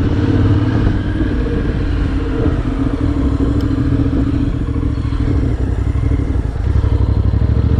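Honda NC750X motorcycle's parallel-twin engine idling steadily.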